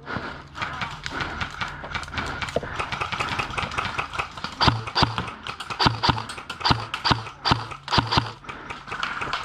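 Footsteps of a player moving across hard ground, breaking into a run about halfway through: even thudding strides about two to three a second, with gear rattling.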